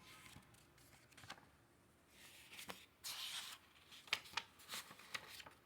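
Faint handling noise: a brief rustle a little after two seconds in, then several light clicks and taps in quick succession.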